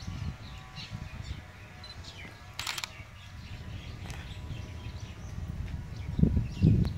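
Birds chirping in short, scattered calls, with a brief crackle near the middle and low rumbles that grow loudest near the end.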